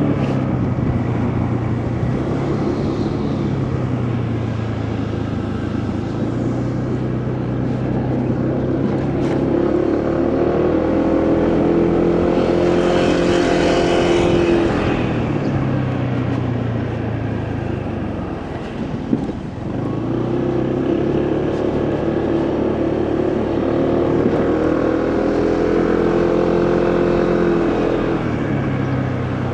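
Motorcycle engine running under way, its pitch rising and falling as the bike speeds up and slows, with a steady rush of road and wind noise. A hiss swells briefly about halfway through, and the engine drops low a few seconds later before picking up again.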